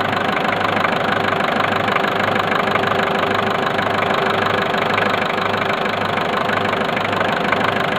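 Turbocharged engine idling steadily with the bonnet open, a low throb pulsing about twice a second.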